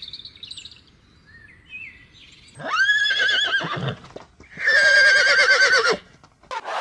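A horse whinnying twice, each call about a second long with a quavering, shaking pitch.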